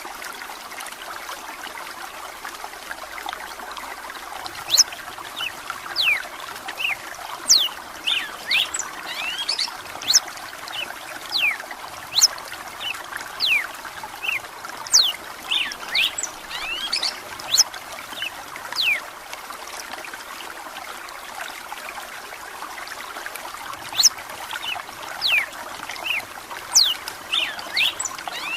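Red-cowled cardinal singing long runs of quick, sharp whistled notes over a steady trickle of running water, with a pause of a few seconds past the middle.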